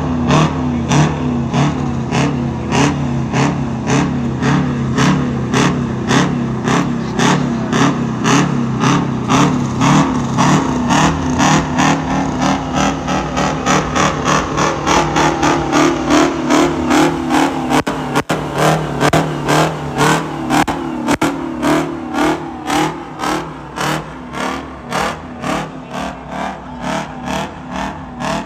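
Turbocharged V8 race truck engine running with a rhythmic pulsing about twice a second, a little faster and quieter toward the end.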